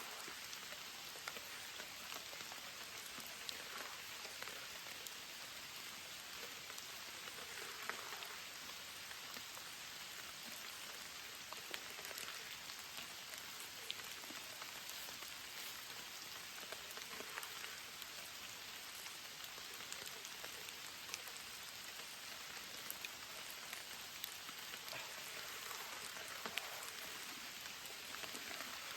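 Rain falling steadily, with scattered sharp ticks of individual drops.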